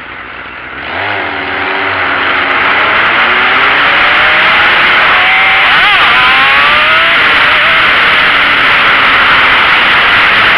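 Sport bike engine revving and pulling away: it gets loud about a second in, climbs in pitch over several seconds with a sharp jump in the middle, and runs under a loud steady rush.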